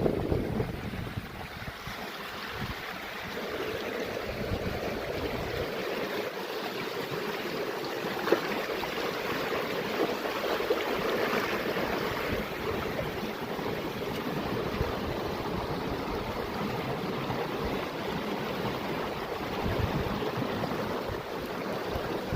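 Running water rushing steadily, with wind buffeting the microphone at the start and again near the end.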